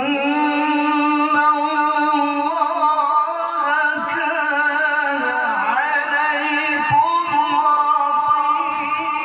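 Melodic Qur'an recitation (tilawah) by a single reciter, holding one long, drawn-out phrase with wavering ornaments; the pitch steps up a little a few seconds in and dips briefly about two-thirds of the way through.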